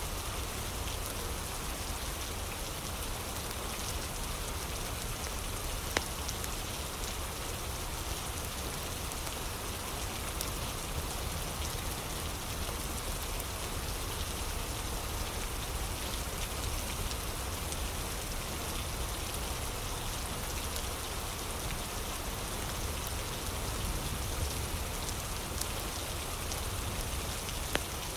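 Steady rain falling, with a few sharp crackles from a fire, the clearest about six seconds in.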